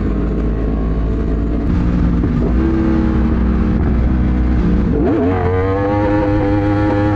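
Sport bike engine running under way, with road and wind noise; about five seconds in its pitch rises quickly and then holds high as the bike accelerates.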